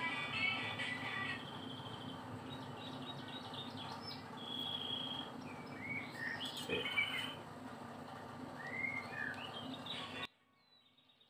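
Birds chirping and calling, a string of short rising and falling chirps, over a steady low hum. The sound cuts off abruptly about a second before the end.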